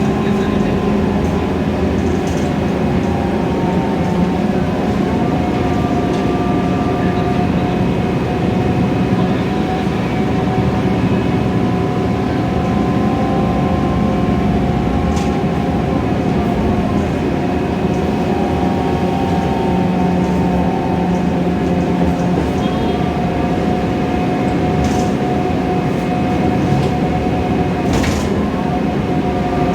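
Inside a Scania K320iA CNG city bus under way: steady engine and drivetrain noise with thin whines that slide slowly up and down in pitch as the bus changes speed. A couple of sharp clicks come through, one midway and one near the end.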